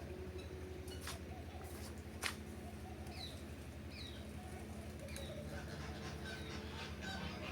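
Birds calling in an aviary: a few short falling chirps about three and four seconds in, over a steady low hum. Two sharp clicks, one about a second in and a louder one a little past two seconds.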